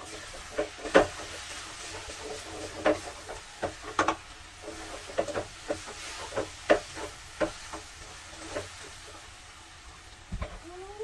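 Kitchen utensils knocking and scraping in a cooking pot as food is stirred, in irregular clinks and knocks about every half second, over a steady low hiss. A short rising tone comes near the end.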